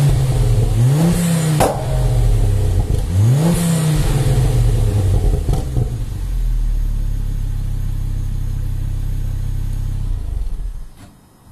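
Ford Focus ST with a Mountune cat-back exhaust being blipped twice, the revs rising and falling quickly each time with a short hiss at each blip, then settling to a steady idle that stops shortly before the end.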